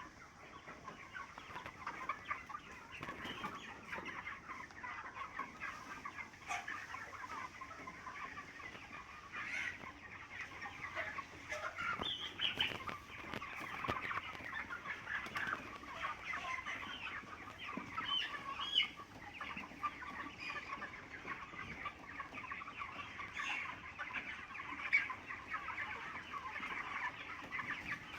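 A large flock of 29-day-old chickens calling together: a dense, continuous chatter of overlapping cheeps and clucks.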